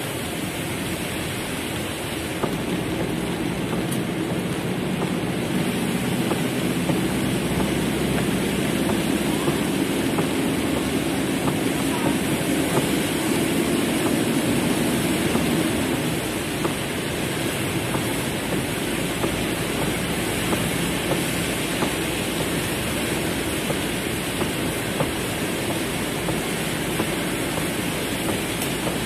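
Heavy rain falling on a car's roof and windows, heard from inside the cabin as a steady hiss with scattered sharp drop ticks. A low hum rises from about five seconds in and fades away again around the middle.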